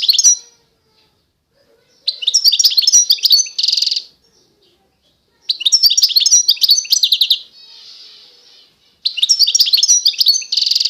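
A pet songbird singing in three bursts of rapid high chirps and trills, each about two seconds long, with short pauses between them; two of the bursts end in a short harsh buzzy note.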